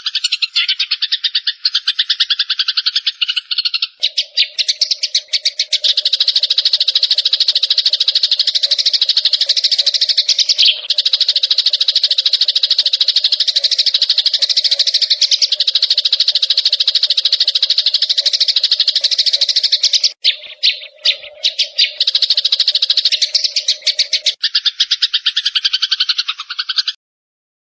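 A songbird's rapid, continuous buzzy trill of fast repeated notes, with brief breaks a little past the middle, stopping abruptly near the end. A steady low tone runs under it through most of the middle.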